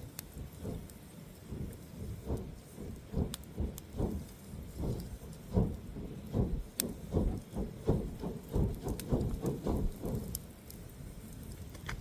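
A run of soft, low thumps, about two a second, coming closer together past the middle and stopping about ten seconds in, with a few sharp high clicks over them.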